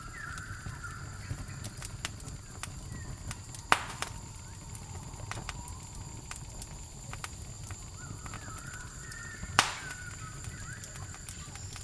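Campfire crackling, with scattered small clicks and two loud sharp pops, about four and nine and a half seconds in, over a steady high insect trill. Short bird chirps come at the start and again near the end.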